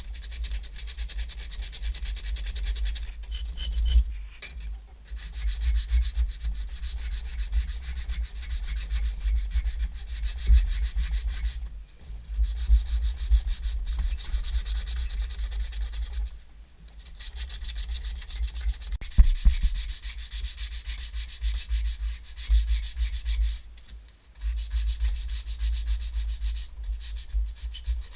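Wood being sanded by hand: sandpaper rubbing back and forth in quick strokes, in several long runs with short pauses between them.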